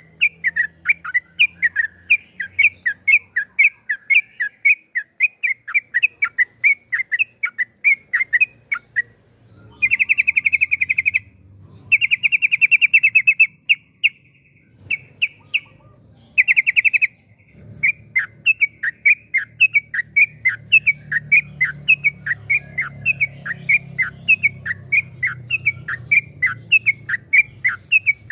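Yellow-vented bulbul (trucukan) singing a fast series of short, dropping chirps, about four or five a second. In the middle it breaks into several rapid buzzing trills, the long 'ropel' runs that bird keepers prize.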